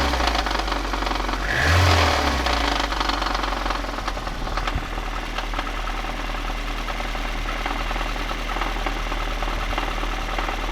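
A VAZ-2110's 8-valve four-cylinder engine idling with a knock. It is revved briefly once, about two seconds in, then settles back to a steady idle.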